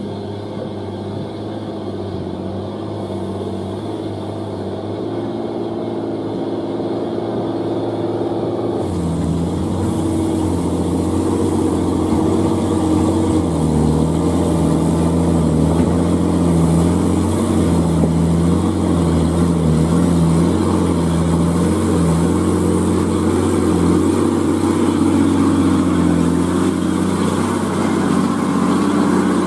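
Old Hino truck's diesel engine running hard under load, its pitch wavering and stepping. Loudness builds slowly, and the sound changes abruptly about nine seconds in.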